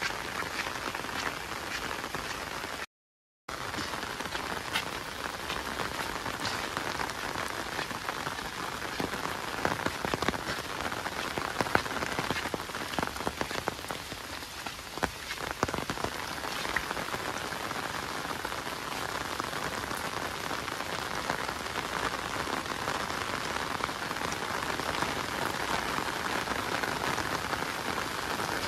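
Rain falling steadily, with many single drops ticking close by. The sound cuts out completely for about half a second roughly three seconds in.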